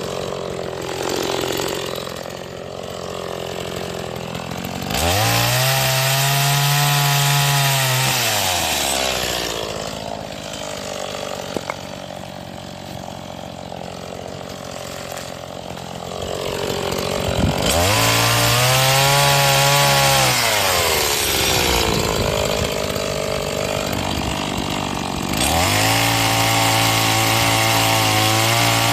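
STIHL MS 180 two-stroke chainsaw idling and then opened up three times, each run lasting a few seconds, with the pitch arching and sagging as the chain bites into firewood, then dropping back to idle between cuts. The saw is still being run in on its first tanks of fuel.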